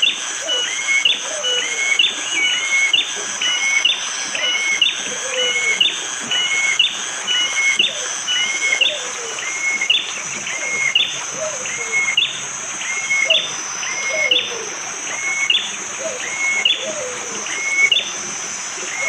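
A prenjak jali singing a sharp, hard call over and over, about once a second, each call a short hooked note followed by a higher rising note. Lower falling notes repeat alongside, and a steady high-pitched hiss of forest background runs under it all.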